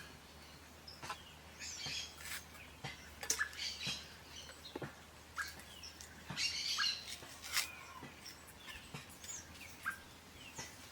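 Small birds chirping intermittently in short, scattered calls, mixed with occasional sharp clicks.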